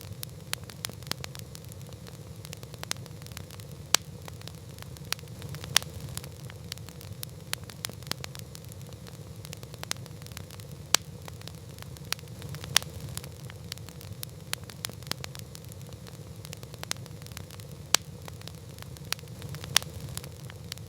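Campfire burning with a steady low rumble and irregular wood crackles, punctuated every few seconds by sharper, louder pops.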